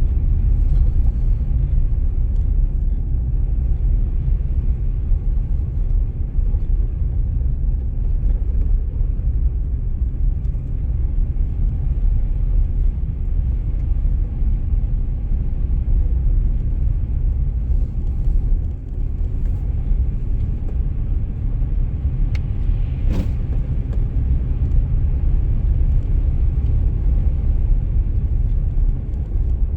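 Car driving on a snowy road: a steady low rumble of engine and tyres that holds an even level throughout, with one short click about three-quarters of the way through.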